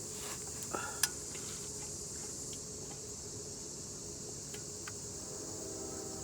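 A few light metallic clicks of transmission pan bolts being threaded in by hand, the sharpest about a second in. Under them runs a steady high-pitched insect chirring.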